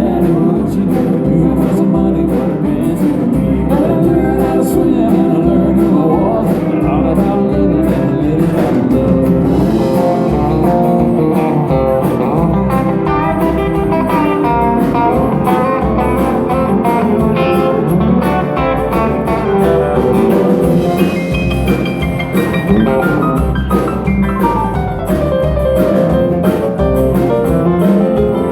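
Live band playing country music: guitar-led, over a steady bass and drum beat.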